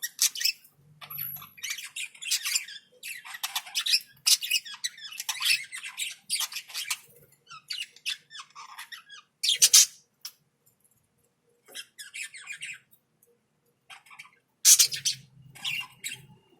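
Small pet parrots chattering with rapid, harsh squawks and chirps in quick bursts, dropping out for a moment about two-thirds of the way through. The two loudest sharp calls come about ten seconds in and near the end.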